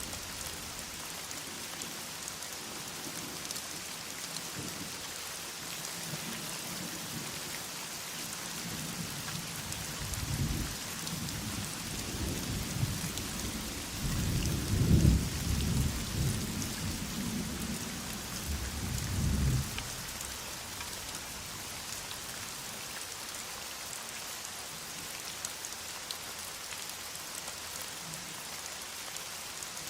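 Heavy rain falling steadily, with a low rolling rumble of thunder that builds about a third of the way in, peaks near the middle and fades out by about two-thirds of the way through.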